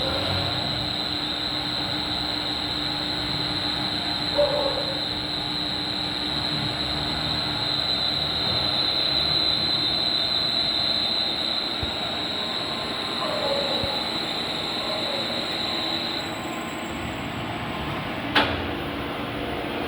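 Cylinder boring machine cutting into a Komatsu PC130 engine block, a steady mechanical run with a high-pitched squeal from the cutter on the cast iron. The squeal stops about 16 seconds in, and a sharp click follows a couple of seconds later.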